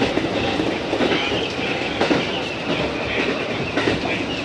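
JR East 205 series electric train running at speed, heard from inside the leading car: steady running noise with the wheels clacking over rail joints now and then.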